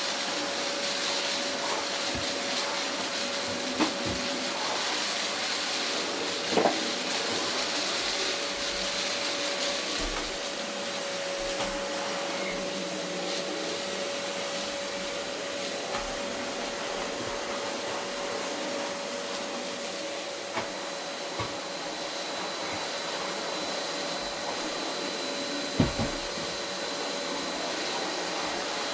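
Vacuum cleaner running steadily with a constant hum over its airflow noise, as it works over a carpet. A few short knocks and bumps come through, the loudest near the end.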